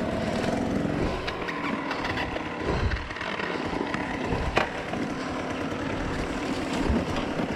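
Dirt bike engine running at low, varying revs, with scattered sharp clacks and knocks over it.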